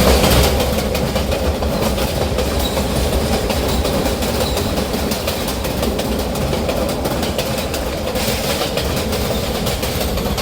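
New York City subway train running, heard from inside the car: a steady rumble of wheels on rail with a rapid run of clicks as the wheels pass over rail joints.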